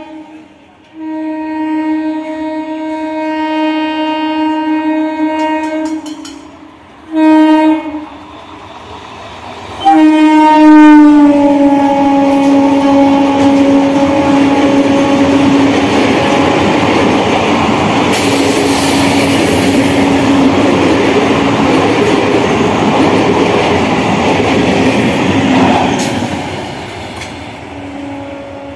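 Local passenger train sounding its horn in one long blast and then a short one as it approaches, then a further blast that drops in pitch as it rushes past at speed. The rush and rattle of the coaches going by follows, fading out near the end.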